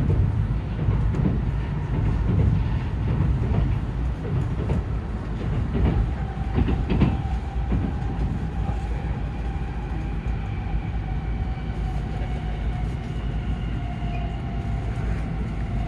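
Cabin noise inside an N700S Tokaido Shinkansen car at speed: a steady low rumble of wheels on rail, with a few knocks about six to seven seconds in. From about then, a steady electric whine joins it and drops slightly in pitch toward the end.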